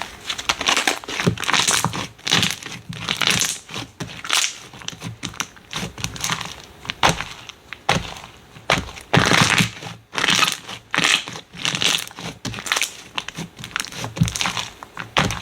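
Slime being squeezed and worked by hand, giving an irregular run of crackling, crunching squishes, with a louder burst every second or so.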